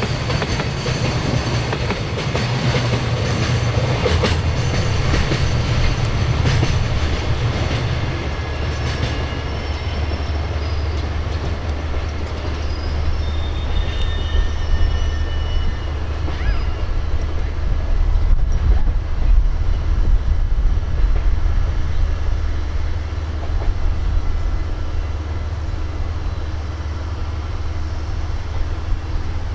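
DF200 diesel-electric locomotive's engine running as the locomotive creeps along the track, its note dropping to a lower, steadier drone about a quarter of the way in. Thin high wheel or brake squeals come and go for several seconds after that.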